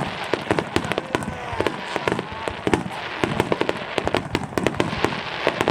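Aerial fireworks bursting in a rapid, dense volley: many sharp bangs a second over continuous crackling, like a starmine barrage.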